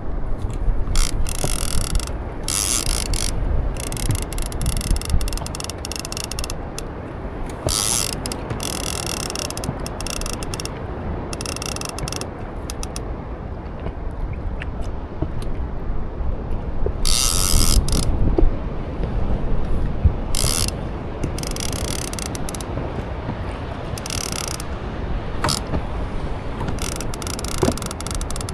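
Fishing reel ratcheting and whirring in repeated bursts a second or two long, over a steady low rumble.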